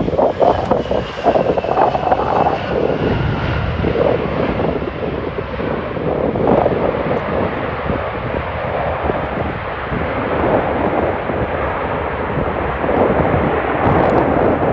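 Jet engine noise from an Airbus A320-232, whose two engines are IAE V2500 turbofans, as the airliner comes in to land: a steady roar, with a faint whine that falls slowly in pitch over the first few seconds.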